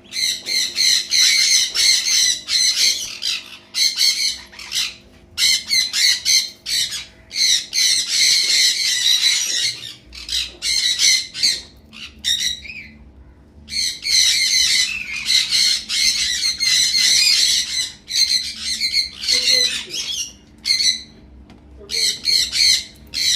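Pet parrots squawking in long runs of rapid, harsh, high calls, with brief pauses about twelve seconds in and near the end.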